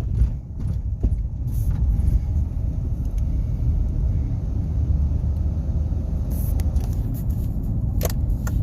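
Car driving, heard from inside the cabin: a steady low engine and road rumble, with a few light clicks near the end.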